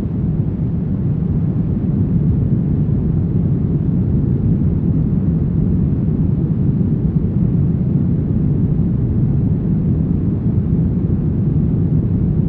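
Steady brown noise: an even, deep rushing hiss that is strongest in the low end and thins out toward the treble, with no changes.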